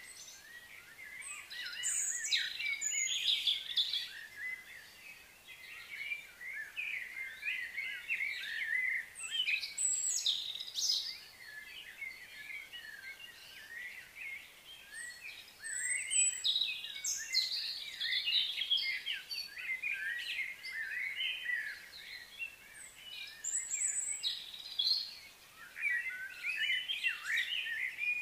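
Several birds chirping and singing, their calls overlapping in bursts that come and go.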